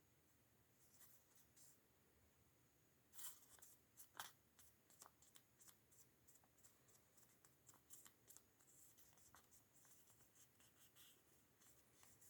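Faint crisp crackling and rustling of a sheet of origami paper being folded and creased by hand, in many short strokes from about three seconds in.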